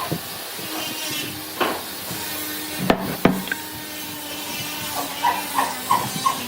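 Woodworking on old boards: a steady hiss of rubbing or scraping on wood, broken by a few sharp knocks, two of them close together about three seconds in.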